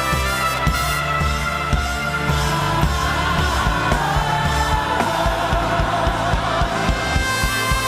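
Live gospel praise-and-worship music with a band and voices or choir singing over a steady beat.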